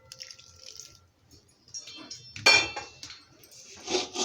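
A metal spoon scraping and clinking against a stainless steel pan while ghee is stirred into the besan mixture, with one sharp ringing clink about two and a half seconds in. The ring of an earlier clink fades out during the first second.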